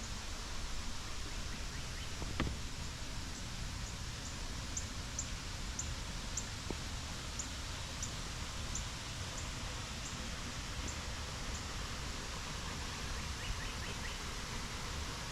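Waterfall's steady rush of falling water. Faint high, short chirps repeat about two or three times a second for the first two-thirds, with a single click about two seconds in.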